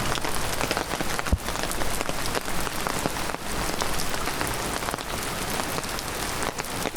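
Heavy rain falling, with many separate drops hitting close by and one louder knock about a second and a half in.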